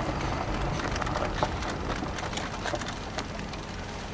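Low rumble of a car, fading over a few seconds, with scattered small clicks and knocks.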